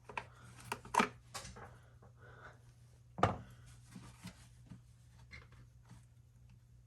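Scattered metallic clicks and clinks of a 10 mm wrench working a fastener in an engine bay, with one sharper knock about three seconds in.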